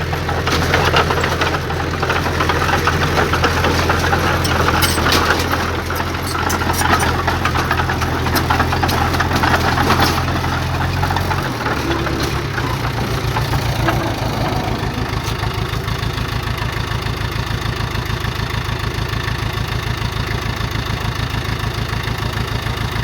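Heavy diesel engine running, with clanks and rattles in the first half. About halfway through, the engine note drops to a lower, evenly pulsing idle.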